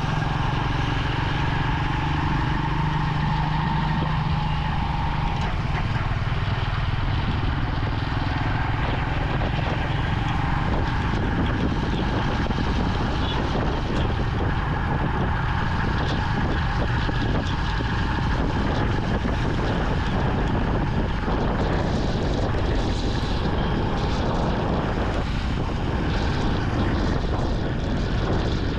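Vintage Yamaha motorcycle engine running as the bike rides along, under a steady noisy rush. A low, even engine note stands out in the first few seconds, then blends into the rush.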